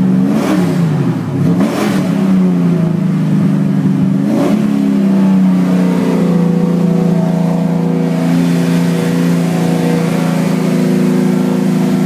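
A 383 stroker V8 with Edelbrock RPM headers being revved: three quick throttle blips in the first five seconds, each rising and falling back, then settling into a steady idle.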